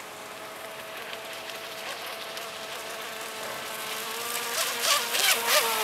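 High-pitched whine of the NQD 757 Mosquito Craft RC boat's brushless electric motor running at speed, growing louder from about four seconds in as the boat comes closer, with splashing from the hull hitting the chop near the end.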